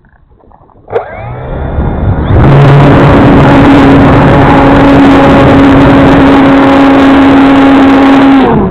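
Electric motor and propeller of a Parkzone T-28 RC model plane spinning up about a second in, then holding a steady high whine at full throttle under heavy wind noise on the microphone. The pitch drops near the end as the throttle eases.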